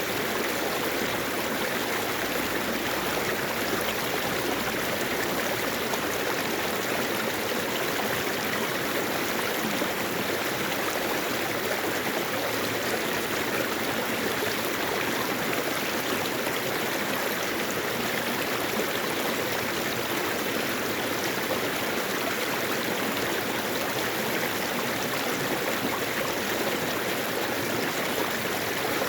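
Mountain valley stream flowing over rocks, a steady, unbroken rush of water.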